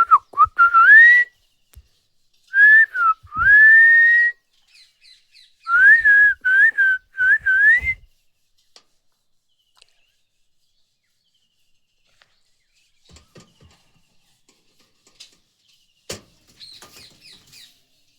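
Clear whistling in three runs of short notes that waver and sweep upward, over the first eight seconds. Faint chirps follow near the end.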